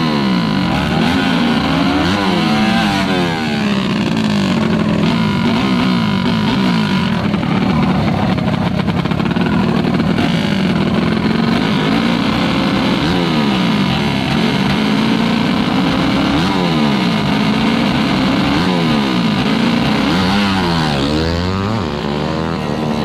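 Big-bore 125 cc trail bike engines, bored out to 57 mm, revved hard and often at the start line, the engine pitch swinging up and down without a break.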